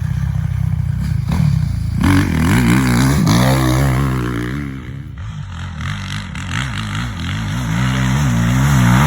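Motocross dirt bike engines revving, the pitch climbing and dropping repeatedly as the throttle opens and closes, dipping quieter about five seconds in before building again.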